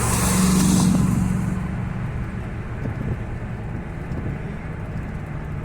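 Steady road and engine rumble from inside a moving car, with a vehicle overtaking close by in the first second or two as a loud whoosh that swells and fades.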